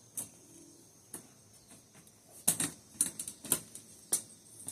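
A scattering of light, irregular clicks and taps from handling, several close together about two and a half to four seconds in, over the faint steady high chirring of insects.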